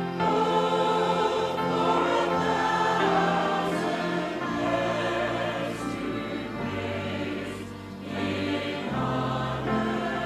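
Choir singing slow, sustained chords.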